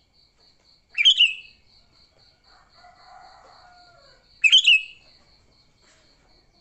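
Sooty-headed bulbul giving two short, loud chattering calls about three and a half seconds apart, over a faint, steady, pulsing cricket trill.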